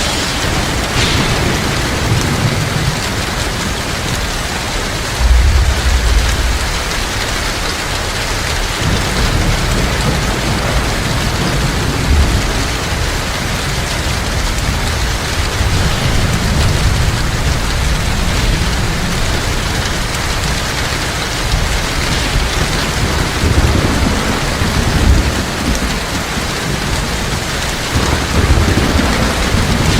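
Heavy rain falling steadily, with low rumbles of thunder several times, the strongest about five seconds in.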